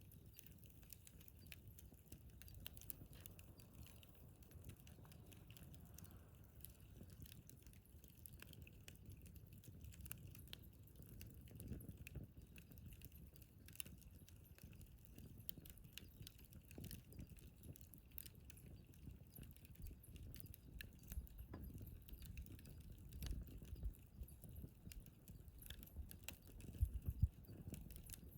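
Wood fire burning in a fire pit, crackling faintly with scattered small pops and a low rumble, a couple of louder pops near the end.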